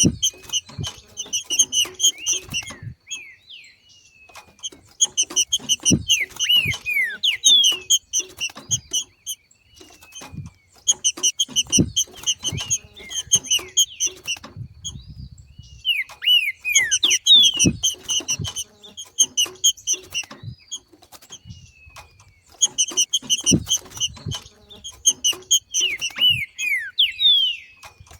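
Green-winged saltator (trinca-ferro) giving its 'macheado' call: bouts of rapid, chattering high notes mixed with quick downslurred whistles, about five bursts separated by short pauses.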